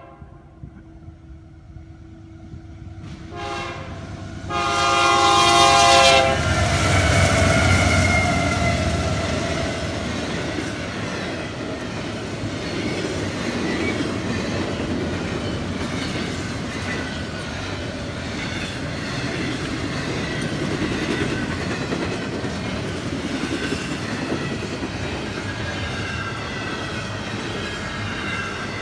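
Canadian Pacific freight train sounding its horn at a grade crossing: a short blast about three seconds in, then a loud long blast, the loudest moment. The train then runs past at speed, its intermodal cars rumbling and clattering steadily over the rails.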